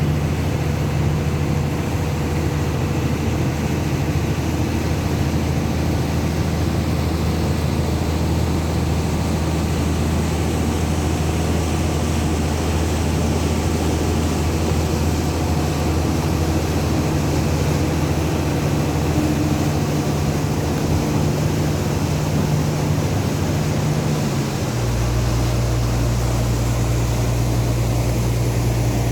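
Heavy rain falling steadily, over a steady low mechanical hum that shifts to a lower pitch about 25 seconds in.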